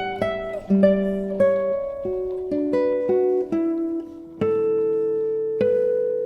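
Solo classical guitar music: single plucked notes in a slow melodic line, ending on a held note that rings and slowly fades.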